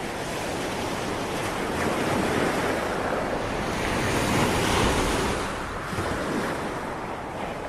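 Ocean waves: a continuous rush of surf that swells to its loudest about halfway through and then eases off.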